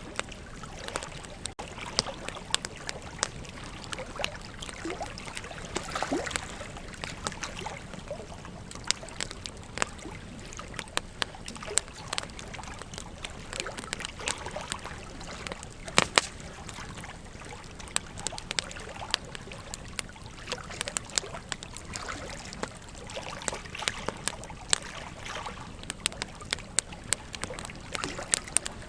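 Wood campfire crackling with frequent irregular sharp pops, the loudest about two-thirds of the way through, over the steady rush of a river.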